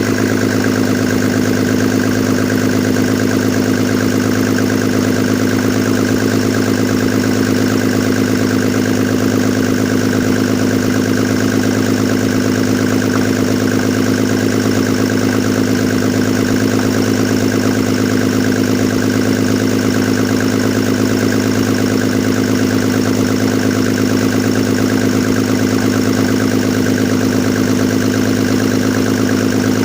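Mercedes-Benz OM606 inline-six diesel, fitted with an OM603 injection pump, idling steadily.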